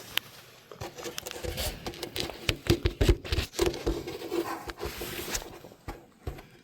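Truck wiper cowl panel being worked loose and lifted off, giving a string of irregular knocks, scrapes and rattles, busiest about halfway through.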